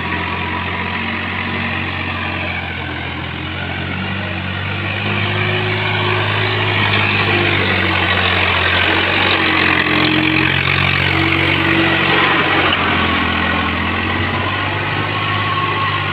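Swaraj tractor's diesel engine running steadily while ploughing, getting louder for several seconds in the middle before easing off again.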